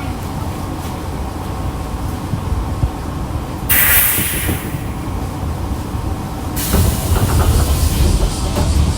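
Nankai 2000-series electric train car with a steady low rumble, then a sudden loud burst of compressed-air hiss about four seconds in that fades over a second or so, and another, steadier air hiss with rumble from about seven seconds in, as the train comes to rest at the terminus.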